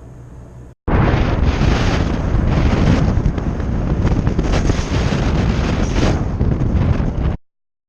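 Strong wind buffeting the microphone: a loud, continuous rumble with hiss that starts and stops abruptly at edits.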